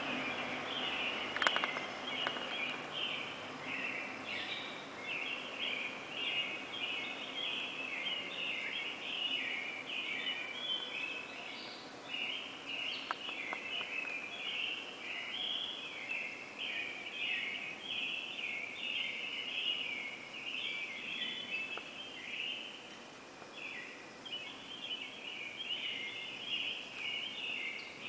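Pre-dawn chorus of many birds chirping together in a dense, unbroken chatter of short, high chirps.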